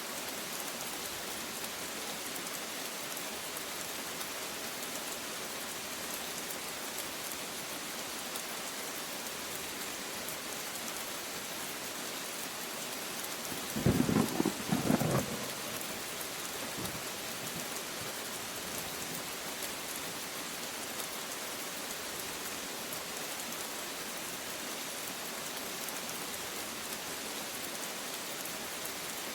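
Steady rain hissing, with a short, loud clap of thunder about halfway through that breaks into a few quick cracks and lasts under two seconds.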